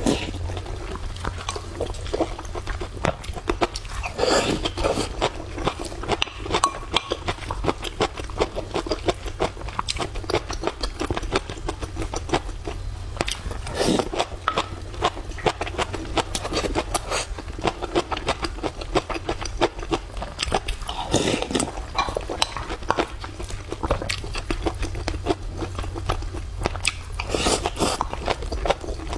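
Close-up sounds of a person eating: irregular chewing, biting and small crunches with occasional clicks, over a steady low hum.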